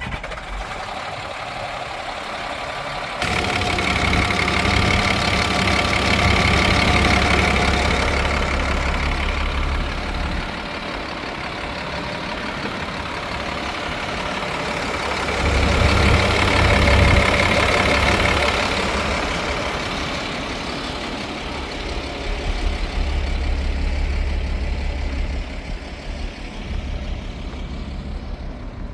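GMC feed truck's engine running just after starting, with a low rumble. It steps up a few seconds in, then swells louder twice, once early and once about halfway through, before settling back.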